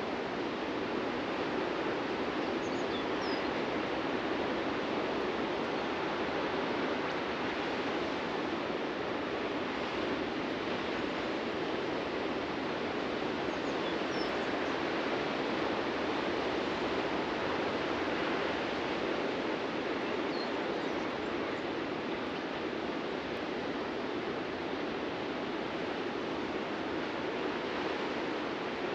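Steady wash of ocean surf breaking on a beach, with a few faint, brief high bird chirps.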